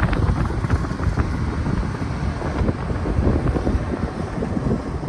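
John Deere 9770 STS combine running with a steady low rumble, with wind noise on the microphone.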